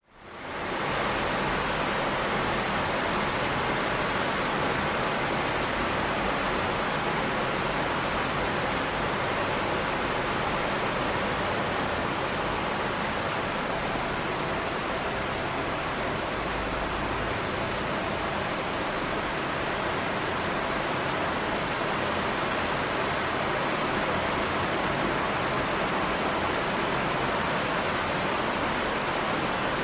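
Steady rain falling, a dense even hiss that fades in over the first second and then holds constant.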